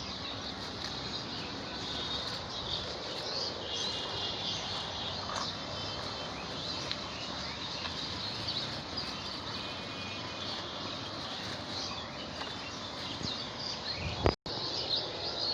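Outdoor garden ambience: a steady background hiss with faint bird chirps and insect calls, and a brief dropout near the end.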